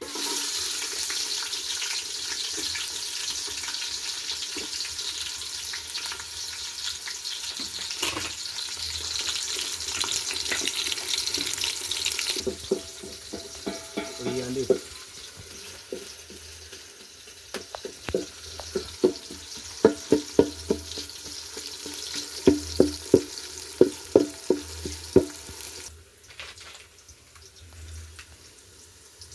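Food sizzling in hot oil, a steady hiss that cuts off about twelve seconds in. Then a run of sharp knocks and clinks, some with a short ring, which falls quieter near the end.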